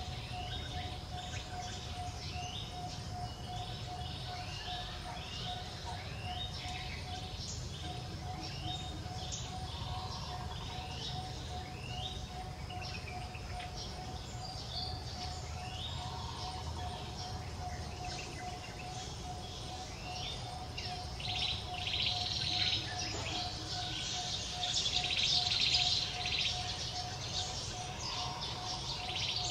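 Small birds chirping, with rapid short chirps repeating over and over, over a steady pulsing tone and a low background rumble. A louder, buzzier swell comes in about 21 seconds in and fades about 27 seconds in.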